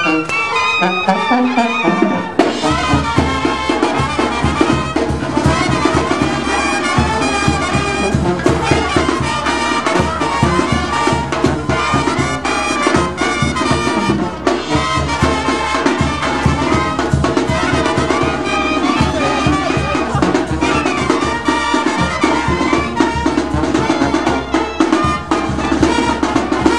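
Mexican banda de viento playing live: trumpets and trombones carrying the tune over a steady low bass and drum beat, which come in about two seconds in.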